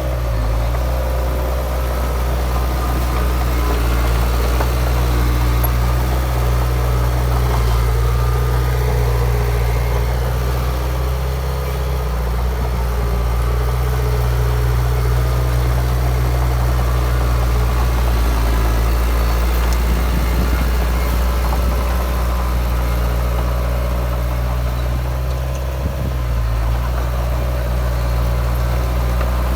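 Heavy diesel engine of earthmoving machinery running steadily, a constant low drone with only small shifts in load.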